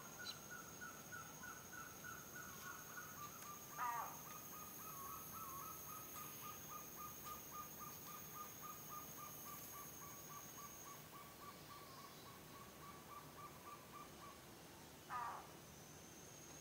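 Tropical rainforest animal sounds. A long, even trill falls slightly in pitch and fades out near the end, under a high steady whine. Two short, loud, harsh calls stand out, about 4 seconds in and near the end.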